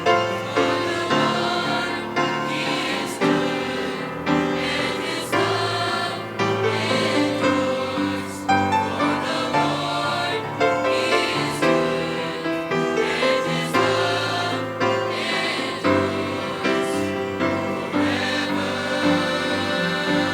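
Mixed choir of young men and women singing a gospel worship song.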